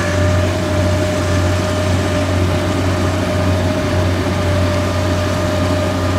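Kubota DC70 rice combine harvester's diesel engine running steadily, a constant low drone with a faint steady whine above it.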